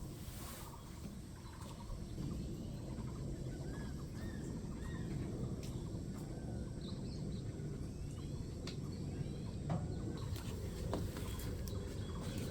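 Small birds chirping, a run of short arched calls a second or two in and a few higher calls later, over a steady low background rumble with scattered light clicks.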